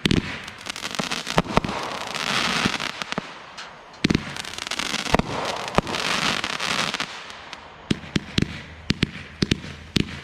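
Consumer fireworks going off: sharp bangs throughout, two stretches of dense crackling in the middle, and a quick string of bangs in the last couple of seconds.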